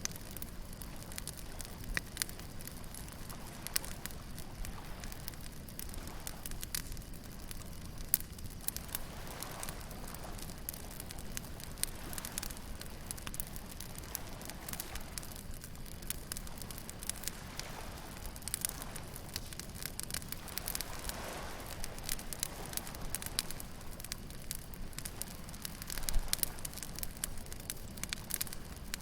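Wood bonfire crackling, with many sharp snaps and pops over a steady low wash of waves, and a few soft swells of surf. Near the end there is a louder burst of popping.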